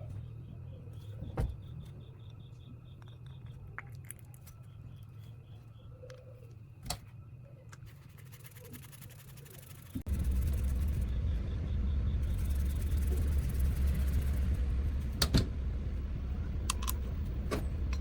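Light clicks and handling noises over a low hum. About ten seconds in, a machine starts suddenly and runs steadily with a deep hum and hiss, with a few sharp clicks near the end.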